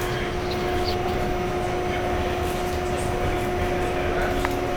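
Steady running noise inside an R68 subway car, with a constant hum holding one pitch.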